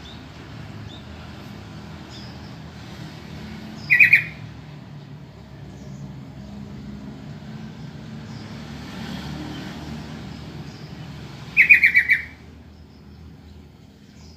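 Yellow-vented bulbul calling: two short, loud bursts of quick chattering notes, one about 4 seconds in and a slightly longer one near 12 seconds, over a steady low background rumble.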